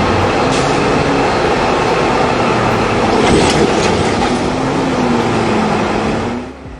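Loud, steady running noise of a heavy vehicle in motion, with a faint wavering engine tone and a couple of clanks, cutting off abruptly near the end.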